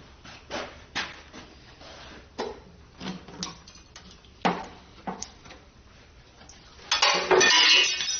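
Metal hand tools and engine parts clinking and knocking against each other as the engine is taken apart, with a louder run of metal clatter near the end.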